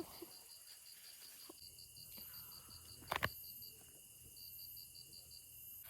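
Grass insects such as crickets chirping in the night, a steady rapid high pulsing at about six pulses a second over a steady high trill. A single sharp click or knock about three seconds in.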